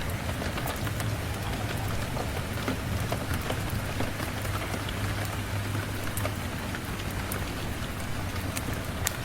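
Steady rain falling, with scattered sharp drop ticks over a low, even rumble.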